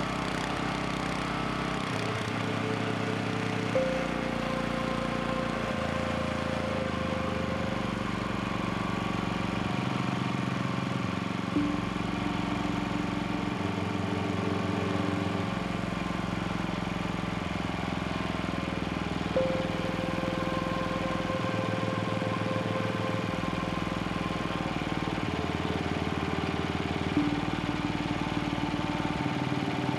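Robin EY-series single-cylinder air-cooled engine, fitted with an aftermarket replacement carburettor, running steadily, with a small blip in level about every eight seconds.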